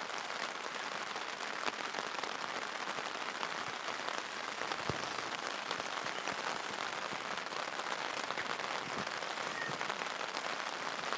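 Steady heavy rain pattering on a tarp, with scattered louder drops.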